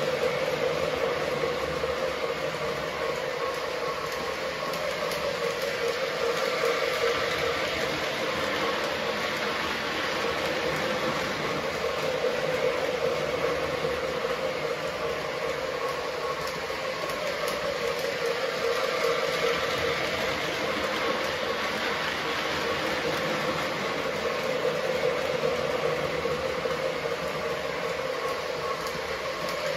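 Menards Union Pacific O gauge toy train running steadily around a loop of steel track, its wheels and motor making a continuous running noise that rises and falls a little as it circles.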